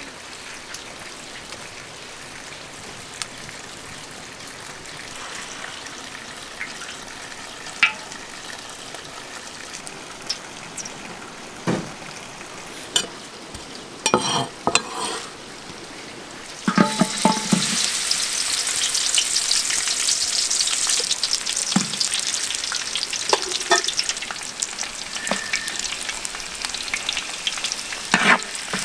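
Chopped garlic, ginger, lemongrass and herbs sizzling in a hot, large metal wok, stirred with a wooden spatula. The sizzle starts suddenly a little past halfway and keeps up with crackle. Before it come a few knocks and scrapes on a wooden chopping board.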